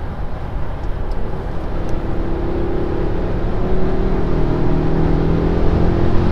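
Cabin sound of a 2021 Mercedes-Benz S580 under hard acceleration from 120 km/h: the 4.0-litre twin-turbo V8's note rises slowly in pitch over a low road and wind rumble, growing louder throughout.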